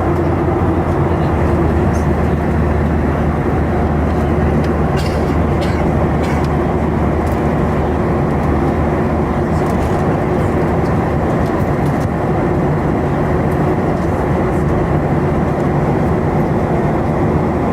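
Steady in-flight cabin drone of a Boeing 737-800: its CFM56-7B jet engines and the airflow over the fuselage, with a constant low hum. A few faint clicks about five seconds in and again near the end.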